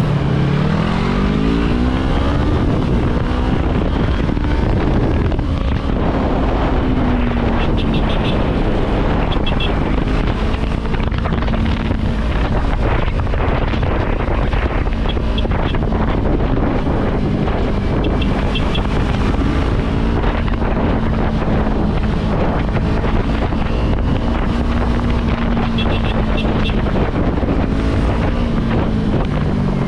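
Yamaha R3 parallel-twin motorcycle engine under way, its revs rising in the first few seconds and then holding steady at cruising speed, with wind rushing over the microphone.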